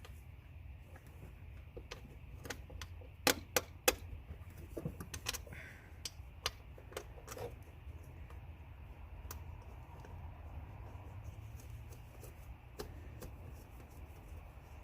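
Scattered sharp clicks and small knocks of tools and parts being handled while working on the idle air control valve in the engine bay, several loud clicks in quick succession about three to four seconds in, over a low steady hum.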